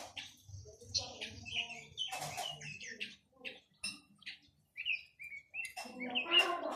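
Quế lâm songbird singing: a run of short, varied chirps and quick whistled notes with gaps between, growing busier and louder near the end.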